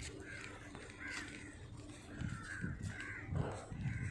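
Crows cawing repeatedly, a string of short harsh calls. From about halfway on, low dull thumps join in, typical of footsteps or handling of a phone carried while walking.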